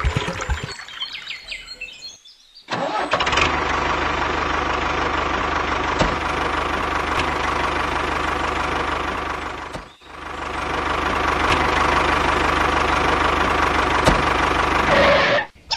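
Mini tractor's motor running steadily. It starts about two and a half seconds in after a short gap, drops out briefly at about ten seconds, then runs on.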